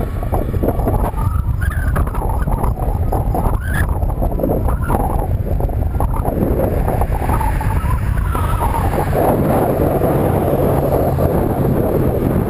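Heavy wind buffeting the microphone on a moving bicycle, with road traffic passing close by; several vehicles come and go as short rising-and-falling tones.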